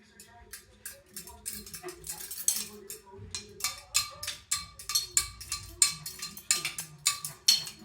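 The metal pull chains of a ceiling fan, running on medium speed and wobbling, swing and clink against the fan. The clinks come irregularly, about two a second, over a low steady hum from the running fan.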